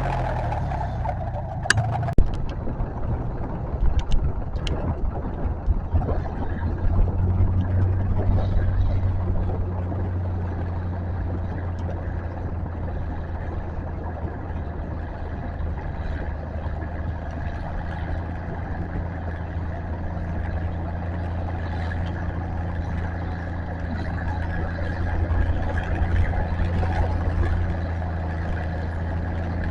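Tractor engine running steadily with a deep hum, a few sharp knocks in the first few seconds.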